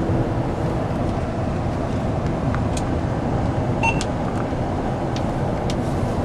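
Steady road and engine noise inside a moving car's cabin, with a short high beep about four seconds in.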